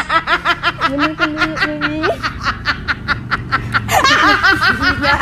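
High-pitched rapid laughter: a long run of short 'hee-hee' pulses, about six a second. There is a held pitched note about a second in, and the laughter grows louder again near the end.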